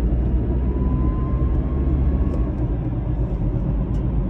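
2013 BMW 328i driving with steady road and drivetrain rumble, and a faint high-pitched whine that rises slowly in pitch and fades out about two and a half seconds in. The owner hears this whine on acceleration and places it in the transmission or transfer case area.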